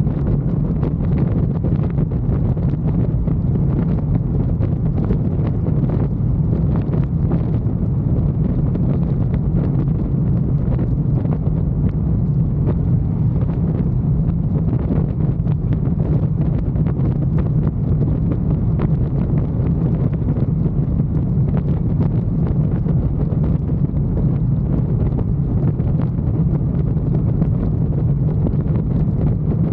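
Wind blasting over the microphone of a motorcycle at steady cruising speed, with the motorcycle's engine running steadily underneath.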